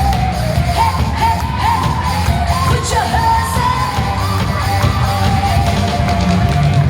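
A live band playing through a PA system, with a lead singer holding long, sliding notes over steady drums and bass.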